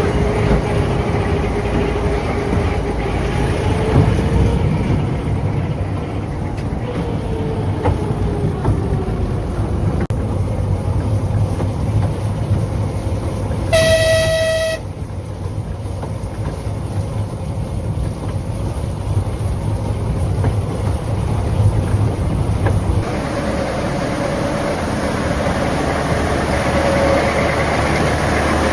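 Narrow-gauge train running with a steady low rumble, and one short locomotive whistle blast, about a second long, near the middle.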